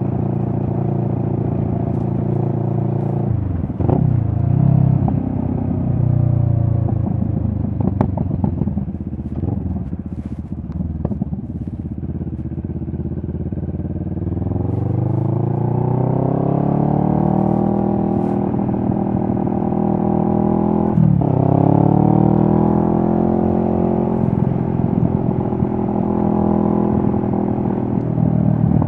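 2023 CFMoto 650NK's parallel-twin engine running under throttle. The pitch dips and wavers, then climbs smoothly as the revs build. It drops sharply and briefly, as at a gear change, climbs again, and falls off near the end.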